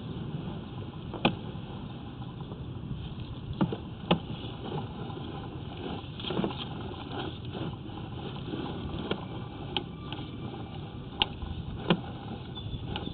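Sewer inspection camera's push cable being pulled back through the drain line: a steady rumbling noise broken by about eight irregular sharp clicks and knocks.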